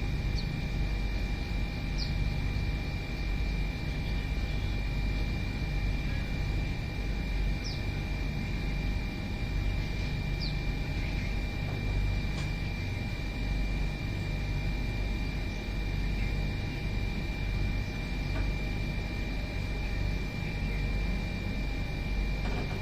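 A steady low rumble with a constant high-pitched hum, and a few faint, short high bird chirps scattered through the first half.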